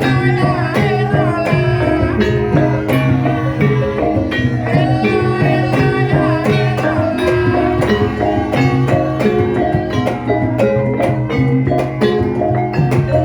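Javanese gamelan music: layered metallophone notes and drum strokes in a steady beat, with a sinden's high female voice singing over it.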